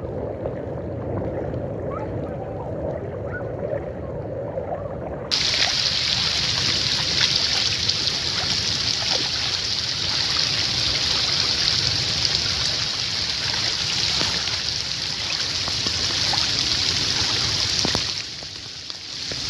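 Heavy rain falling in a steady hiss that starts abruptly about five seconds in, preceded by a quieter, duller wash of sound. The hiss dips near the end.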